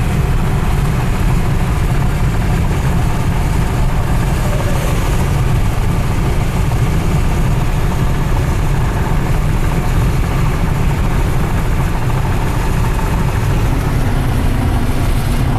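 Steady road and engine noise inside a car cruising at highway speed, with a strong, even low rumble.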